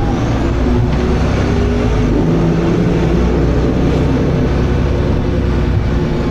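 Dennis Arrow double-decker bus running under way, its diesel engine giving a steady loud drone whose tones shift slightly in pitch.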